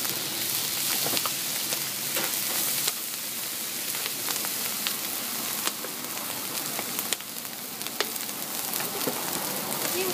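Fried rice sizzling steadily in a large wok, with scattered sharp clicks and scrapes of a metal spatula against the pan.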